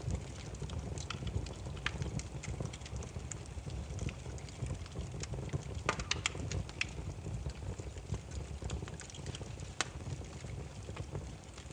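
Burning firewood crackling: irregular sharp pops and snaps over a steady low rumble of flames, with a thicker cluster of pops about six seconds in.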